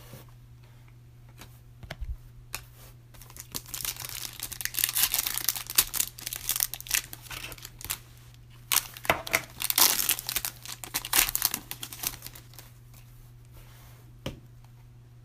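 Wrapper of a Panini Prizm retail trading-card pack being torn open and crinkled, in two bouts of rustling: from about two seconds in to about seven and a half, and again from about nine to twelve seconds.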